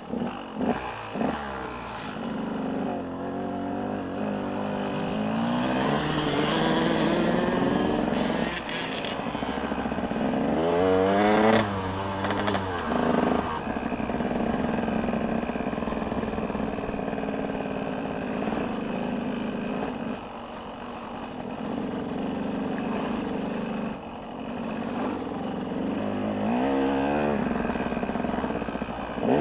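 Motocross dirt bike engines revving hard and dropping back as the bikes ride the track, with sharp rising revs about a third of the way in and again near the end.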